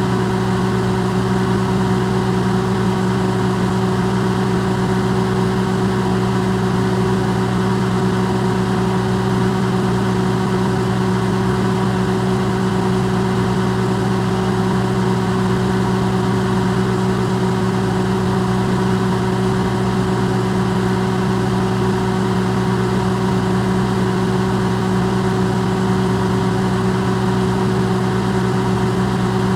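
Electrolux microwave oven running, recorded amplified: a steady, unchanging low hum with an even rushing noise over it.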